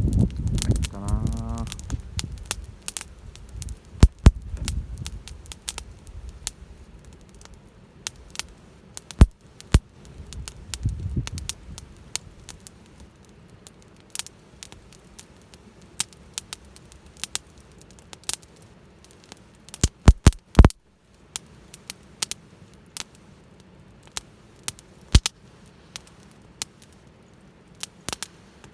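Wood campfire crackling, with irregular sharp pops and snaps, a few of them much louder, the loudest cluster about twenty seconds in.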